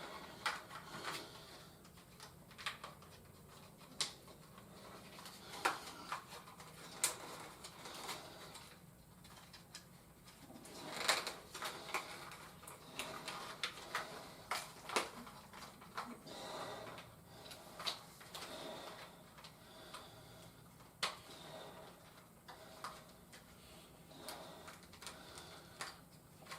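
Scattered light clicks and taps, irregular and one at a time, as of plastic toy pieces being handled.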